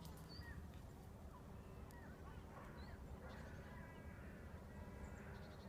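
Faint, scattered bird calls over a low steady rumble, with a few drawn-out pitched calls from about three and a half to five seconds in.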